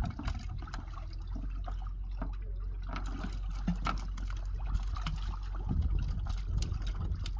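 Water sloshing and trickling, with scattered small clicks and knocks over a steady low rumble.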